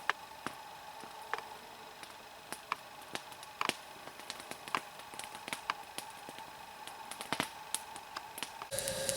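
Wood campfire of dry, resinous conifer sticks crackling, with irregular sharp pops. About half a second before the end the sound suddenly becomes louder and fuller.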